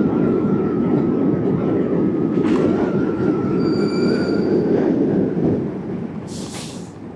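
Dongdo S8 electric bike climbing a slope: a dense low rumble of riding noise with a thin, steady motor whine on top. The whine fades out about four and a half seconds in, and the rumble eases near the end.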